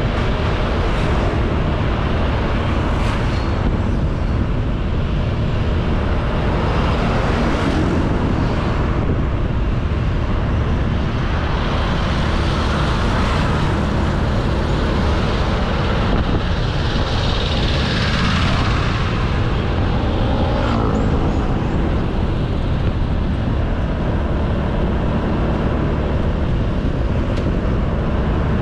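Honda Beat 110cc scooter engine running steadily while riding, heavily masked by wind rushing over the camera microphone and by road noise.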